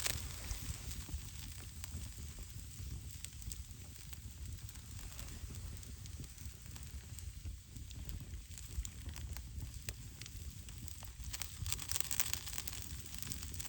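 Campfire crackling: scattered sharp pops over a steady hiss, with a denser run of pops near the end.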